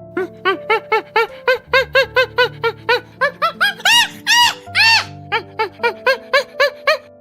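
A rapid series of short squeaky calls from an animal, about three a second, each rising and falling in pitch, with two longer, louder calls near the middle. Background music plays underneath.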